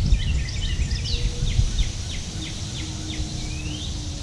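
A songbird sings rising slurred whistles and a quick run of short downward notes, over a steady high insect drone and low rumble.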